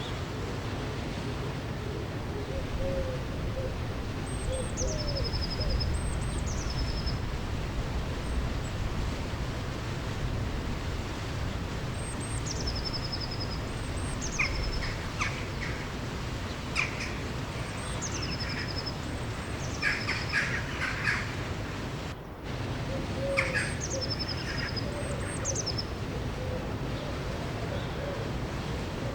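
Birds singing over steady rushing river water. A high call that drops in pitch and ends in a short trill repeats every few seconds. Low hooting calls come near the start and again later, and clusters of short chirps fall in the middle.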